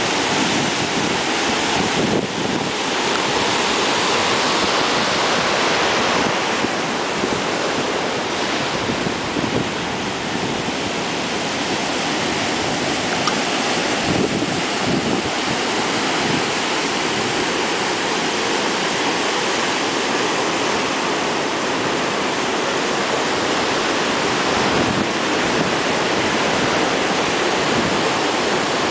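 Heavy surf and strong wind from Hurricane Earl, a steady, dense wash of noise with no distinct breaks.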